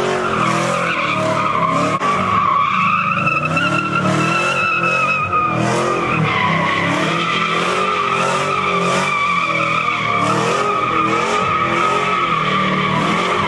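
A car drifting or doing donuts: its tyres squeal in one long, unbroken screech, while the engine revs up and down again and again.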